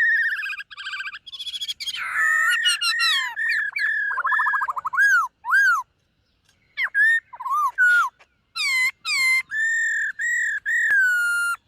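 Black-throated laughingthrush singing: a varied run of loud, clear whistled phrases with slurred rising and falling notes and quick repeated notes, broken by a pause of about a second just past the middle.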